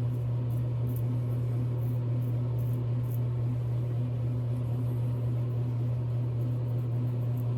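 A steady low hum from a running motor or appliance, with short faint scratchy strokes on top: a safety razor drawn lightly back and forth over the skin.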